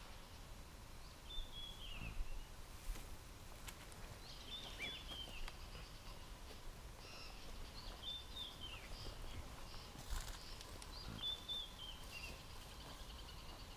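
A bird repeating a short, high whistled phrase that falls in pitch, about every three seconds, over faint bush background noise. Two sharp clicks come through, one a few seconds in and one about ten seconds in.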